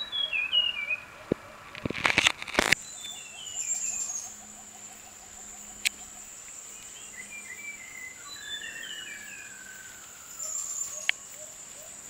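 Forest birds calling: several runs of short falling notes, a rapid series of low notes, and one long falling whistle about nine seconds in, over a steady high insect drone that starts about three seconds in. A cluster of loud sharp knocks comes about two seconds in.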